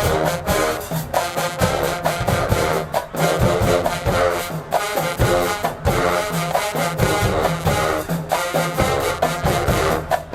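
HBCU marching band playing a loud, rhythmic stand tune: brass chords over steady drumline strokes.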